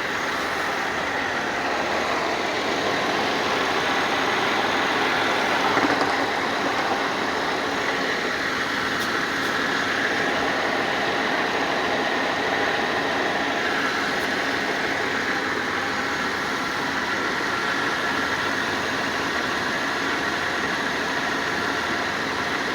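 Car or truck engine idling steadily with the air conditioning running, during an A/C refrigerant recharge.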